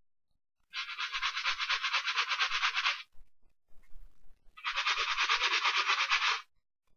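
A brush scrubbing a sneaker in two bursts of rapid, even back-and-forth strokes, each lasting about two seconds, with a short pause between them.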